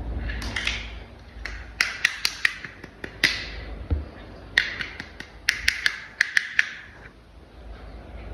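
Sharp clicks and taps of hard plastic toy vehicle parts being handled and snapped together, coming in quick clusters of several clicks with short pauses between.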